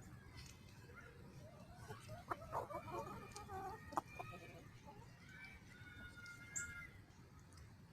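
Chickens clucking and calling as they feed on food scraps, with a busy cluster of calls about two seconds in and a few sharp taps.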